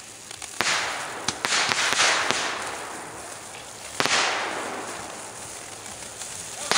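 Fireworks going off: a string of sharp bangs at uneven intervals, each fading away over about a second, with the loudest at the very end.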